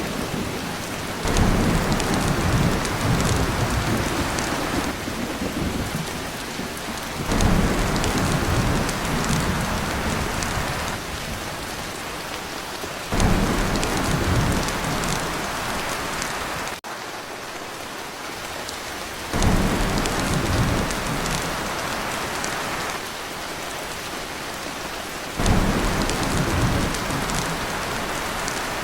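Heavy rain pounding on a tin roof, with a deep thunder rumble that starts suddenly and fades about every six seconds, five times in all.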